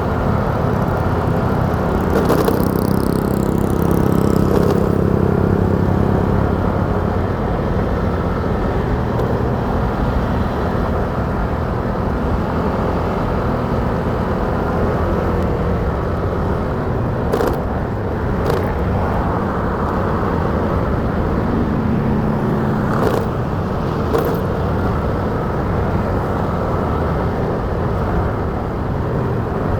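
Steady rumble of a motorcycle ride in traffic, heard from the rider's own bike. It gets louder for a couple of seconds near the start as another vehicle goes by, and there are four short knocks in the second half.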